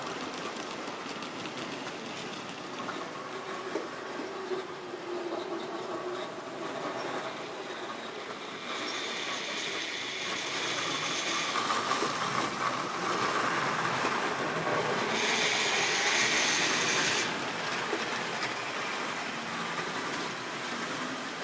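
Model railway train running on its track: a steady electric-motor and wheel running noise, growing louder twice, as if passing close by, about nine seconds in and again about fifteen seconds in.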